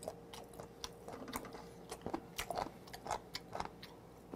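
Close-miked chewing of sliced abalone: irregular wet mouth clicks and smacks, several a second.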